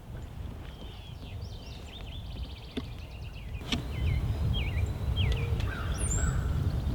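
Wind rumbling on the microphone, louder in the second half, with small songbirds chirping and trilling. There is a single sharp click just before the midpoint.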